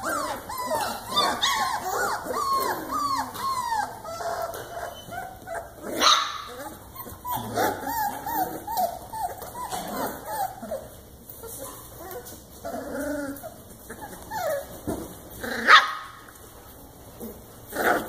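A litter of young puppies yipping and whining, many short rising-and-falling cries overlapping. There are a few sharper, louder yelps, one about six seconds in and two near the end.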